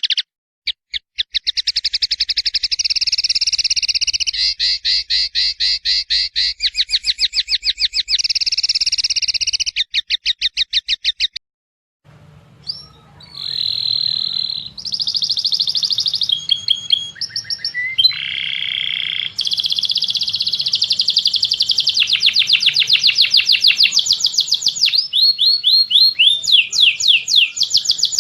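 Songbird song of fast, rolling trills that stops abruptly about eleven seconds in. After a brief silence, song starts again with varied phrases, clear whistled notes and rapid trills over a low hum.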